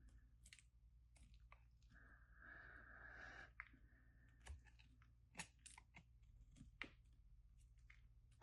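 Knife carving a bar of soap: a series of short, sharp cuts and scrapes, with one longer scrape about two seconds in, over a faint steady low hum.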